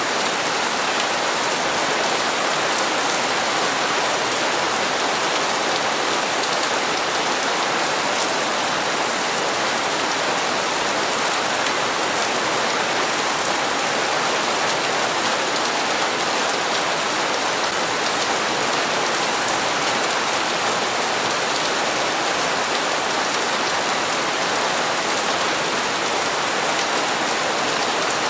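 Steady rain falling and pattering on hard surfaces, an even hiss with no change in strength.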